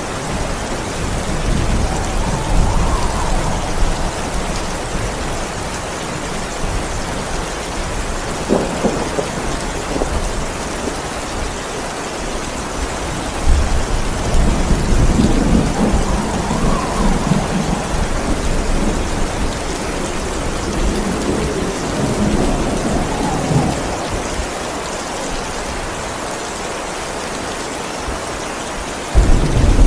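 Steady heavy rain with thunder rolling several times: a low rumble at the start, a sharper crack about nine seconds in, longer rolls through the middle, and a sudden loud low thunderclap just before the end.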